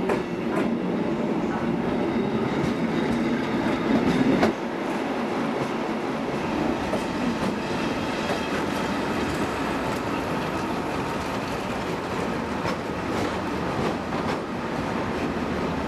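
A rake of passenger coaches hauled by a MÁV class 448 diesel shunting locomotive (a modified M44) rolls slowly past on the platform track. There is a steady rumble of wheels and engine, louder for the first few seconds, with a few sharp clacks of wheels over rail joints.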